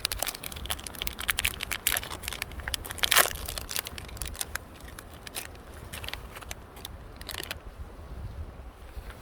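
Irregular crackling and crunching, dense for the first few seconds, then sparser and stopping about seven and a half seconds in, over a low steady rumble.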